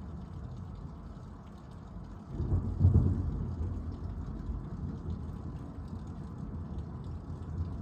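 A thunderclap rumbling in about two and a half seconds in, loudest around three seconds, then rolling away slowly over a steady low background rumble.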